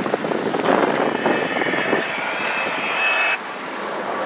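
Jet airliner engines running as the aircraft passes: a steady rushing noise, with a thin high whine over it from about two seconds in that cuts off abruptly a second and a half later.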